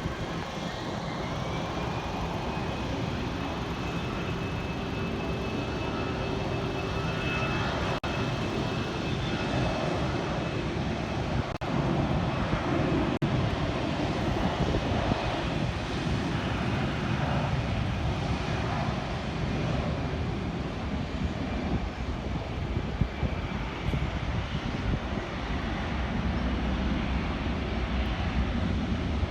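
Airliner engines running with a steady rushing noise. A high whine rises over the first two seconds and then holds steady.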